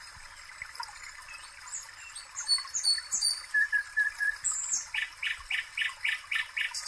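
Small birds chirping and calling over a steady hiss, ending in a run of about seven quick, evenly spaced notes, some four a second.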